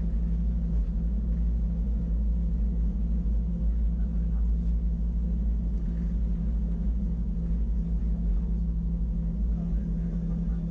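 Wengernalp Railway electric rack train running, heard from inside the carriage: a steady low rumble with a constant hum over it.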